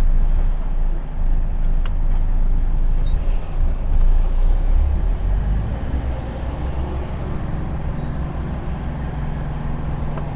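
Truck's diesel engine running steadily at low speed while the truck is manoeuvred to turn around, with a couple of faint clicks in the first few seconds. The engine settles a little quieter about six seconds in.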